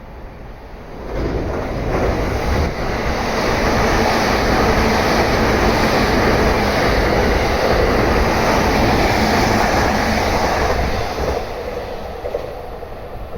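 Train passing through a station at speed without stopping. The rumble of wheels on rail builds about a second in, holds loud and steady for several seconds, then fades near the end.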